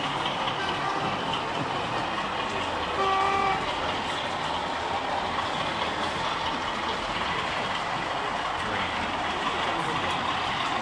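Steady background noise of a busy exhibition hall. About three seconds in, a model locomotive's sound-fitted horn gives one short blast.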